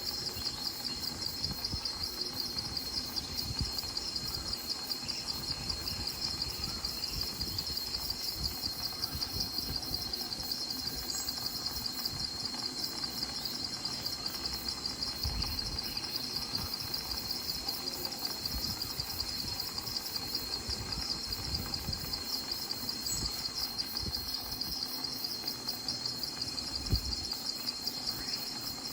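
Crickets chirping in a continuous, rapid pulsing trill, with a soft low rumble underneath and a single light knock near the end.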